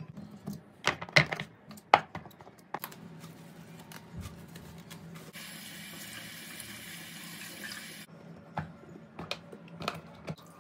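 Kitchen tap running for about three seconds, switched on and off abruptly, among sharp knocks and clatters of things being handled at the sink.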